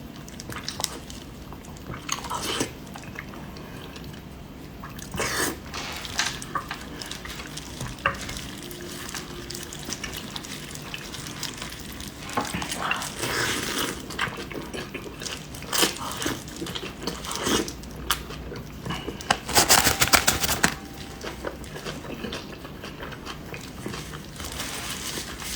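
Mukbang eating sounds: biting and chewing, with utensils clinking against dishes in scattered short clicks. A dense run of rapid clicks near the end is the loudest part.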